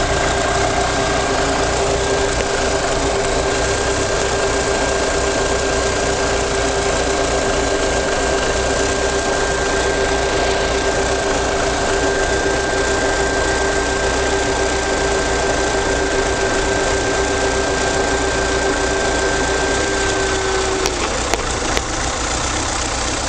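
Car engine running steadily with a constant whine over it; the whine cuts off about 21 seconds in, followed by a few sharp clicks.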